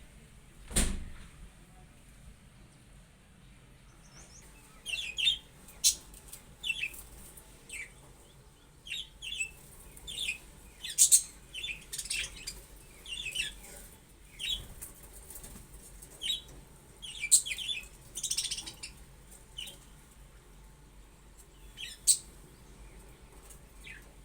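Budgerigars giving short, sharp, high chirps at irregular intervals, some in quick clusters and some alone. A single knock sounds about a second in.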